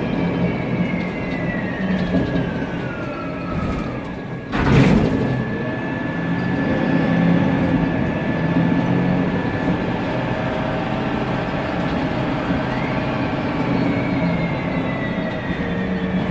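Inside a Mercedes-Benz Conecto CNG city bus: its M936G gas engine and cooling fan run steadily while the Voith DIWA automatic transmission whistles, its pitch falling slowly with road speed, jumping up once and falling again. One sharp knock about four and a half seconds in.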